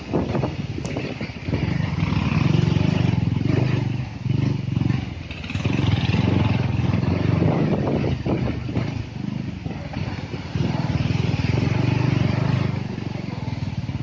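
Motorcycle engine running under load, its level rising and easing several times, with short dips about four seconds in and again around ten seconds.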